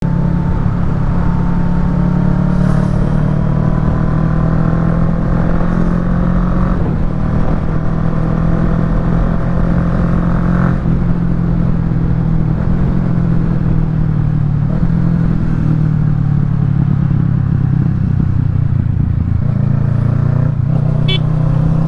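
Kawasaki Ninja 650's parallel-twin engine through a Yoshimura Alpha full exhaust, pulling with rising revs that break off twice, about seven and eleven seconds in, as it shifts up, then running steadily.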